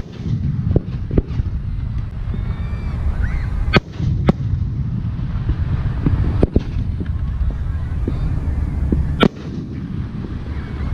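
Aerial firework shells bursting: four sharp bangs, two close together near the middle and one near the end, over a steady low rumble.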